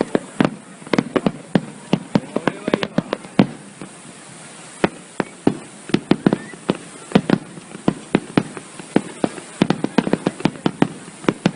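Fireworks bursting overhead in quick, irregular bangs, often several a second, with a short lull about four seconds in.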